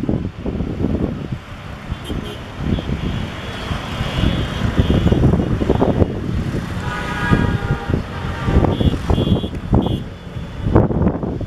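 Wind buffeting the microphone over the rumble of a river launch running through rough water, in uneven gusty surges. A short pitched tone sounds about seven seconds in.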